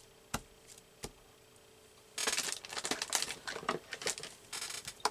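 Two light knocks, then from about two seconds in paper rustling and crinkling with many quick scratchy crackles, as paper scraps are handled.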